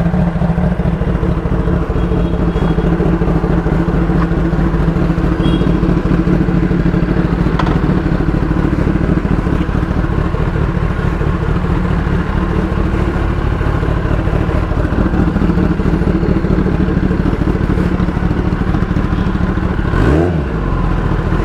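Kawasaki Ninja sport bike's engine idling steadily while it warms up after a cold start, with a short blip of the throttle near the end.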